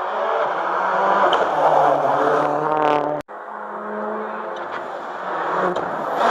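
Rally car engines at high revs on a special stage, pitch rising and falling as the cars drive past. About three seconds in the sound cuts off abruptly and another car's engine takes over.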